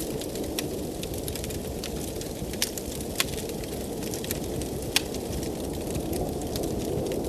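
Wood fire crackling, with sharp irregular pops and snaps, over a steady blizzard wind that swells near the end.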